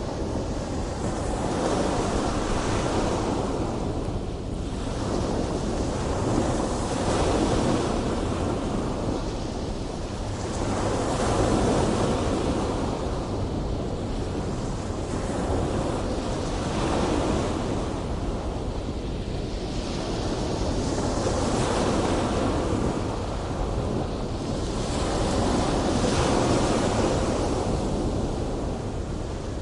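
Ocean waves breaking in continuous surf, the wash swelling and easing every four to five seconds over a steady low rumble.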